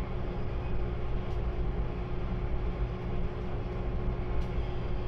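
A 185 series electric multiple unit running at speed, heard from inside the car: a steady rumble of wheels on rail with a constant motor hum and a few faint clicks.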